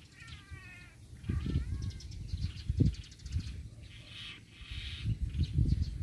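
Birds calling: a few drawn-out, falling calls in the first two seconds, then fainter high chirps, over irregular low rumbling thumps on the microphone.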